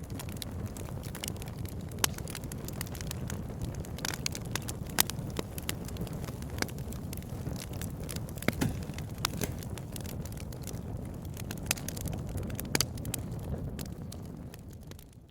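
Wood fire crackling: irregular sharp pops and snaps, a few much louder, over a steady low rumble of the burning logs. The sound fades out near the end.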